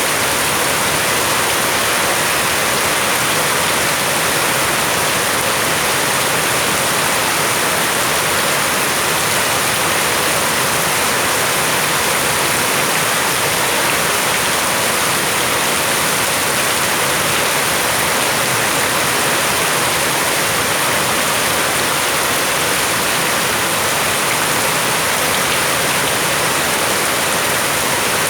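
Heavy rain pouring down in a loud, steady, even hiss.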